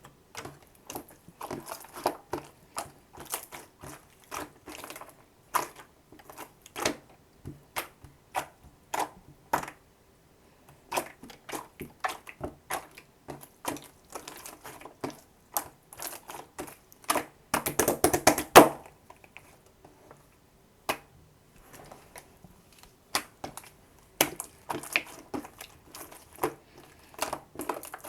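Slime being worked by hand, giving irregular runs of sharp clicks and pops. About two-thirds of the way through comes a dense, louder squelching cluster, with short pauses before and after it.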